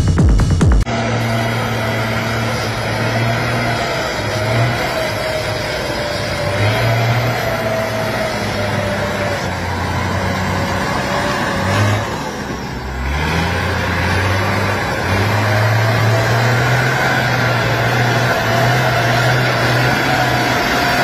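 Heavy truck engine running under load, its pitch stepping up and down and rising again about twelve seconds in, with a wavering whine above it. Electronic music cuts off about a second in.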